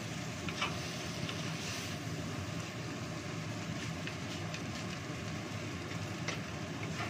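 Fried rice stir-frying in a nonstick pan over a high gas flame: a steady hiss, with a spatula scraping and tapping the pan a few times.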